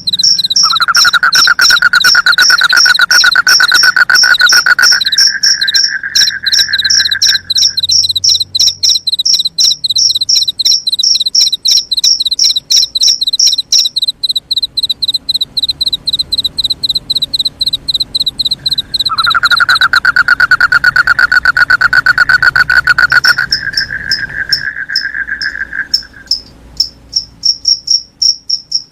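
Crickets chirping in a steady, rapid, evenly pulsed rhythm. A lower, continuous trill joins them twice, each time for about seven seconds.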